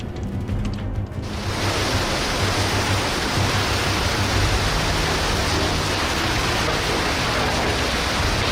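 A steady, dense rushing hiss that sets in about a second in and holds level, over low background music.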